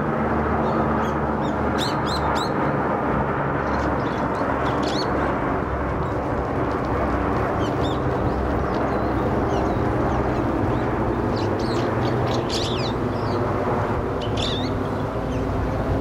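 Wild birds give short, high chirping calls in scattered clusters, busiest about two seconds in and again around twelve seconds. A steady, loud background rush of noise runs underneath.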